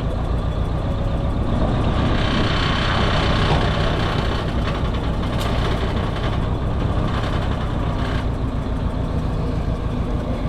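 Old forklift's engine running steadily, growing louder and brighter from about two seconds in and settling back near eight seconds as it works.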